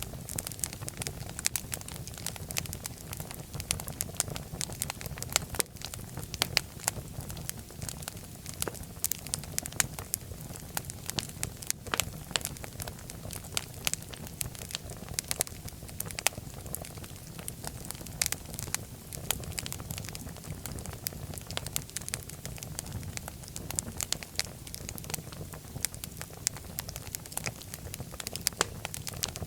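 Wood fire burning in a fireplace, crackling with many sharp irregular pops over a steady low rumble of the flames.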